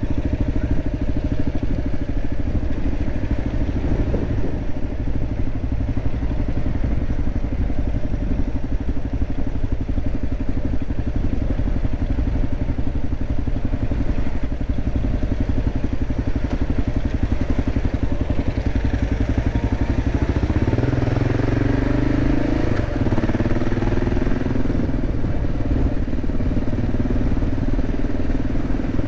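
Motorcycle engine running steadily under way, with the revs rising and falling about two-thirds of the way through.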